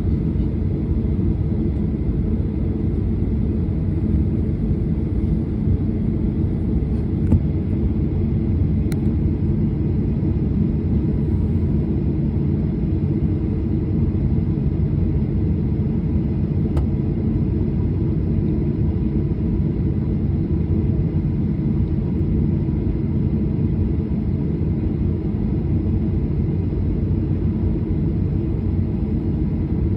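Steady low rumble of a jet airliner heard inside the passenger cabin, with a faint click about seven seconds in.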